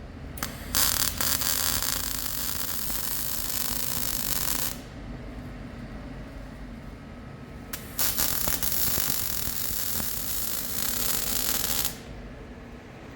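MIG welder laying two weld runs on steel: a steady crackling hiss that starts abruptly about a second in and stops after about four seconds, then starts again about eight seconds in for another four seconds, each run starting with a short strike.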